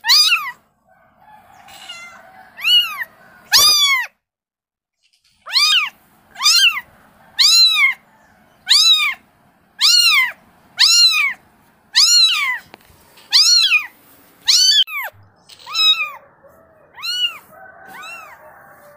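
A kitten meowing over and over, calling for its mother: high cries about one a second, each rising then falling in pitch, with a short pause about four seconds in.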